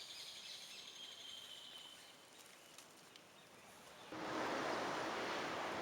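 Faint outdoor ambience with high, steady chirring that fades out, then about four seconds in an abrupt switch to a loud, even rushing noise.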